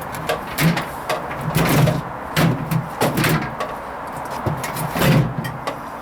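Hoover Vision HVP16 washing machine on its Silks 30 hand-wash cycle: the drum turning in short movements, water and laundry swishing in a run of irregular surges over the motor's intermittent hum.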